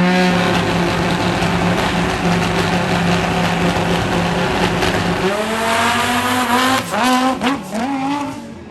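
Drag race car's engine held at steady high revs, dropping about five seconds in, then revved up and down several times before fading near the end.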